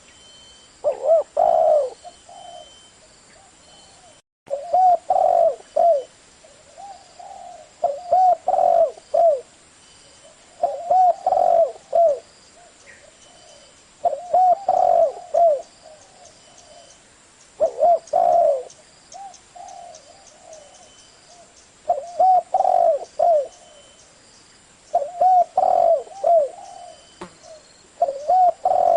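Spotted dove cooing: the same short phrase of several arched coos, repeated about every three seconds.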